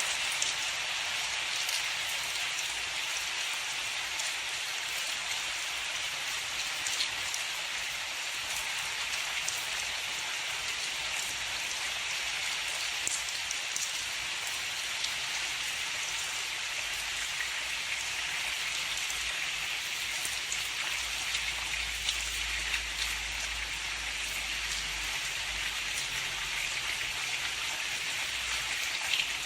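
Steady heavy rain falling on a surface, a constant hiss with scattered drops ticking through it. A faint low rumble comes in during the second half.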